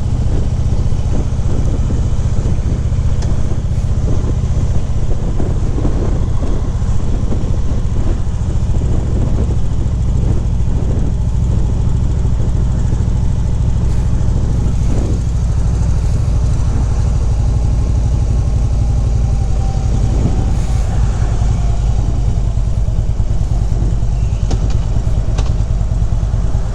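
Motorcycle riding along at a steady speed: a low, even engine drone under a haze of wind and road noise.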